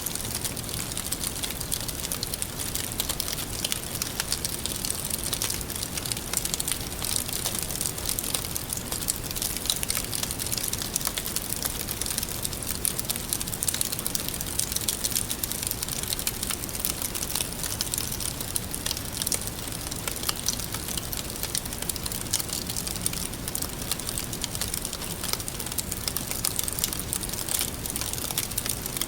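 Wood fire crackling steadily, with a constant hiss and many small sharp pops throughout.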